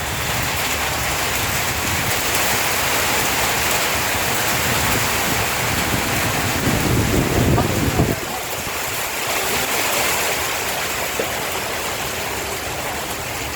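Heavy rain falling steadily, with wind rumbling on the microphone. The low rumble swells, then cuts off sharply about eight seconds in.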